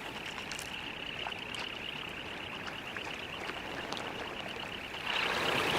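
Dense, high-pitched chatter of a large flock of semipalmated sandpipers over a steady wash of water. It grows louder about five seconds in.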